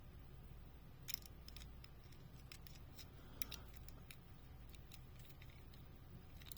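Faint, scattered snips and clicks of scissors cutting into a diecast car's plastic blister packaging, over a low steady room hum.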